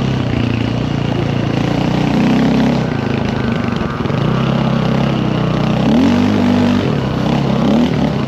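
Dirt bike engine running under way, its pitch rising and falling with the throttle, with a quick rev up about six seconds in.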